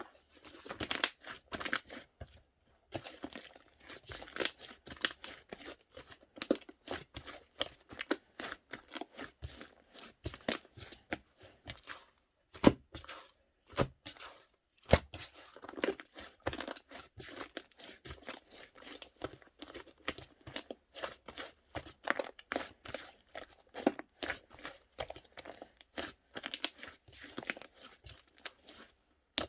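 Slime being squished and stretched by hand, giving rapid, irregular clicks and crackles with a few louder pops.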